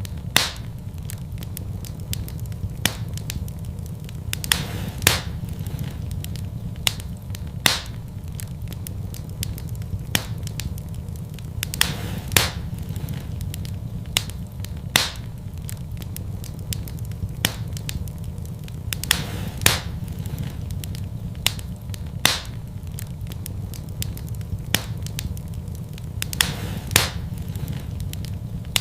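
Wood fire burning in a fireplace: sharp crackles and pops at irregular intervals, roughly one loud pop every second or two with fainter ticks between, over a low steady rumble.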